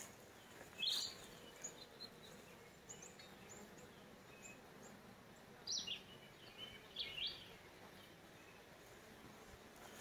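Faint, scattered short bird chirps over a quiet outdoor background, the clearest about a second in, near six seconds and twice around seven seconds.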